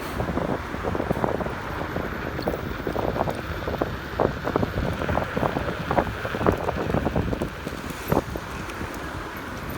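Wind buffeting the microphone of a rider on a moving electric scooter, in irregular gusts, over steady road noise.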